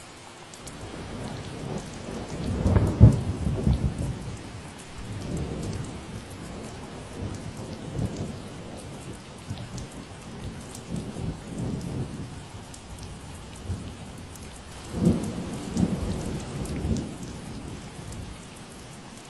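Steady rain falling, with thunder rumbling in several rolls over it, loudest about three seconds in and again around fifteen seconds.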